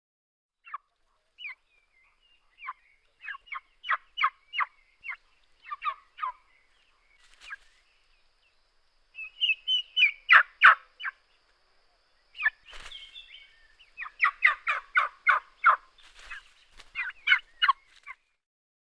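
Domestic turkey gobbling, several rapid rattling gobbles in bouts, the loudest about ten seconds in.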